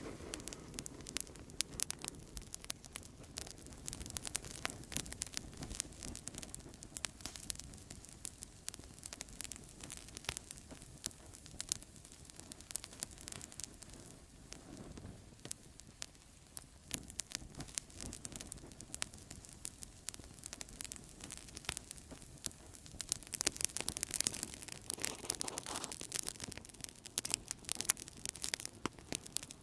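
Outdoor campfire crackling steadily: many sharp pops and snaps over a soft hiss of burning, growing busier and louder for a few seconds near the end.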